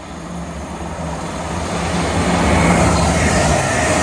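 A Great Western Railway Intercity Express Train (Class 800-series) approaching at speed and running past close by. Its rumble and wheel-on-rail noise grow louder over the first two seconds, then hold.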